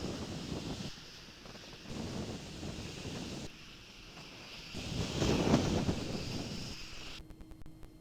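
Wind gusting over an outdoor microphone in irregular rumbling bursts, the strongest about five seconds in.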